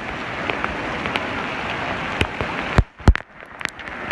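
Steady rain falling, a dense hiss with scattered sharp drop clicks. About three seconds in come two loud close knocks, a third of a second apart, and the rain sound dips briefly around them.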